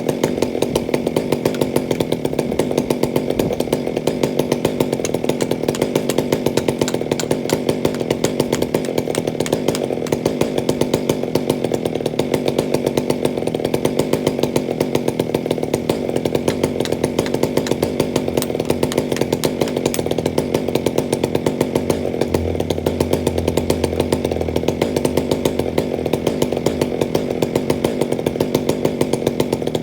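Chainsaw running steadily at high speed, its pitch holding level throughout.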